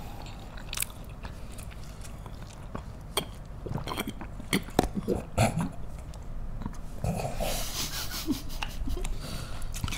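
Close-up eating sounds of market snacks: wet chewing with sharp mouth clicks and smacks, and a sip from a bottle. Near the end a longer breathy noise comes in.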